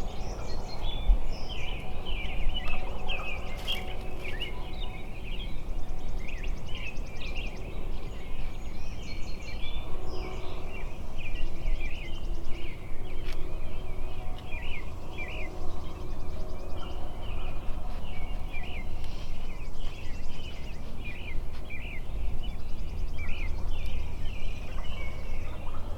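Many wild birds singing and chirping continuously, a thick chorus of short high calls, over a steady low rumble.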